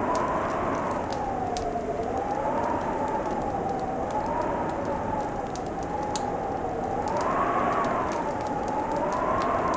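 Fireplace crackling with scattered sharp pops over a steady hiss, under a howling winter wind whose pitch slowly rises and falls.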